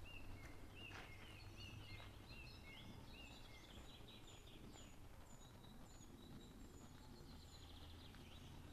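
Faint birdsong: a small bird repeating short, high chirping notes in quick series, over quiet background noise.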